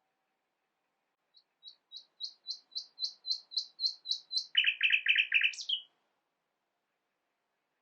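Nightingale singing one song phrase: about a dozen high whistled notes repeated at roughly four a second, growing steadily louder, then a quick run of lower, louder notes and a short high closing note.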